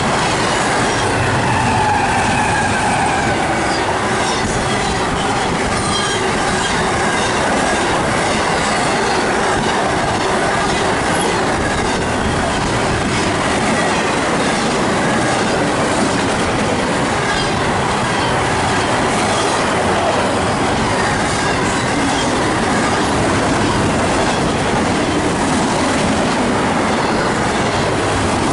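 Double-stack container freight train passing close by at about 70 mph: a steady rush and rumble of steel wheels on the rails, with rapid clickety-clack of the wheels over the rail joints.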